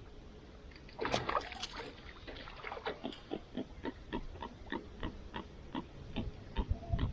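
A lure being cast and worked back on the water: a splash about a second in, then a steady run of short pops or clicks, about three a second, slowing a little near the end.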